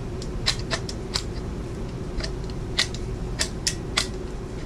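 Sharp clicks and taps from the plastic guard and base of a DeWalt cordless jigsaw being handled and flipped over, about a dozen, spaced unevenly.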